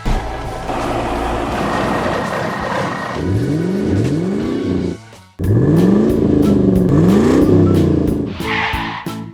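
Engine revving up in a run of rising sweeps, like a car accelerating through its gears, with a short break about five seconds in and music underneath. A hissing skid-like noise comes first, and another short hiss near the end.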